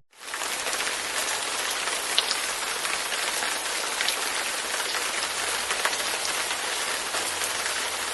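Steady rain falling, a dense even hiss with scattered faint drop ticks, starting abruptly as a stock sound-effect recording.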